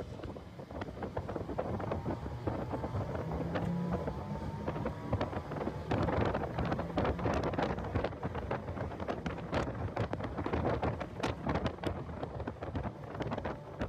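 Heavy wind buffeting on the microphone of a car on track, crackling irregularly over the car's engine, which rises in pitch over the first few seconds as the car accelerates.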